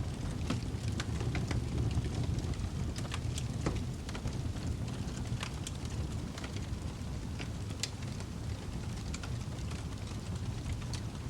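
Wood fire burning in a fireplace, with a steady low rumble and frequent sharp crackles and pops scattered irregularly throughout.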